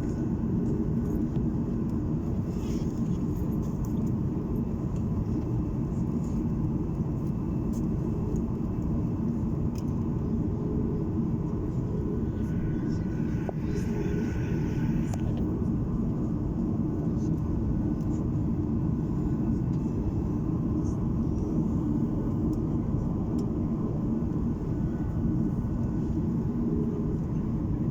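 Steady low rumble inside an airliner cabin in flight: jet engine and airflow noise holding an even level.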